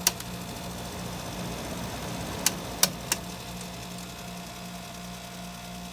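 Quiet Master window air conditioner running with its compressor and fan on, a steady hum. A few sharp clicks come in, one at the start and three close together about two and a half seconds in, from debris caught in the fan that the owner says makes a racket.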